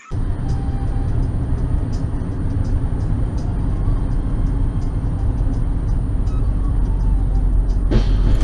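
Car driving, heard from a dash camera: a steady low engine and road rumble that slowly grows louder, with faint light ticks.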